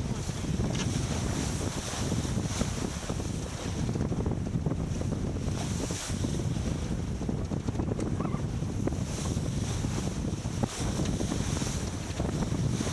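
Wind buffeting the microphone over water rushing and splashing along a racing sailboat's hull under way. The hiss of spray swells and fades every second or two, with a couple of sharp knocks.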